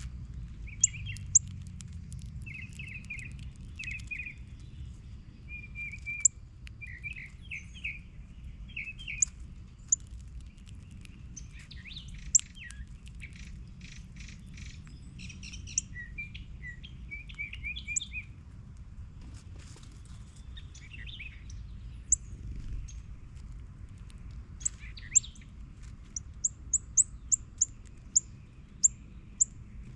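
Several small songbirds chirping and calling, with quick warbled phrases. Near the end comes a rapid series of sharp, high-pitched chips, about two or three a second. A low steady rumble runs underneath.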